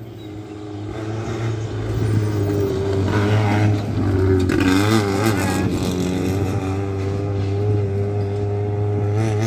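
Rally car engine getting louder as it approaches over the first two seconds, with the revs rising and falling around the middle. It then holds a steady note until the sound cuts off suddenly.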